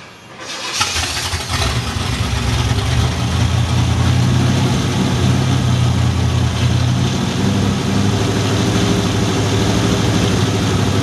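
1976 Pontiac Trans Am SE's V8 engine catching about a second in and building to a steady run, primed with gasoline poured into the carburetor because the fuel lines are empty.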